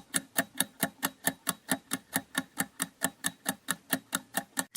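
Countdown-timer sound effect: rapid, even clock-like ticking, about four and a half ticks a second.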